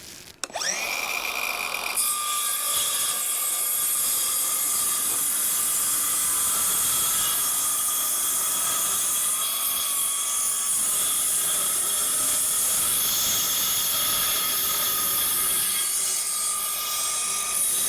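Woodland Mills band sawmill starting up with a rising whine about half a second in, then running steadily as its band blade cuts lengthwise through a board.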